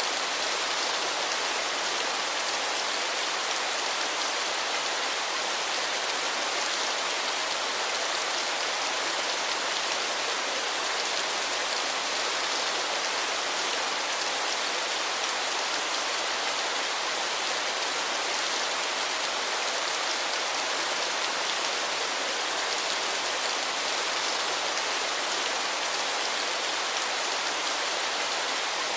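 Waterfall: a steady, unbroken hiss of falling and splashing water, mostly high and bright with little low rumble.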